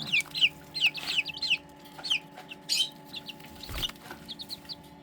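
Chicks peeping in a brooder: many short, high, falling peeps in quick runs, over a steady hum from the brooder's fan. A soft thump comes about four seconds in.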